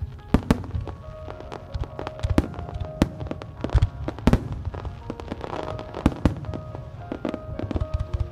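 A fireworks display: aerial shells bursting and ground mines firing in a rapid, irregular string of sharp bangs with a low rumble. Music plays along under the explosions, as for a display choreographed to music.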